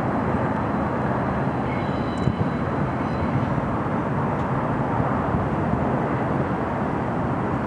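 Union Pacific double-stack container train rolling past: a steady noise of steel wheels running on the rails.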